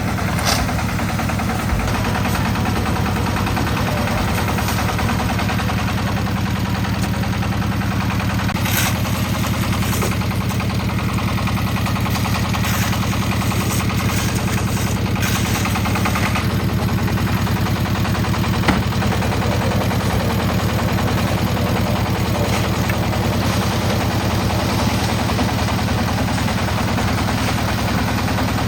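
Concrete mixer's engine running steadily with a fast, even chugging, and a few short sharp knocks along the way.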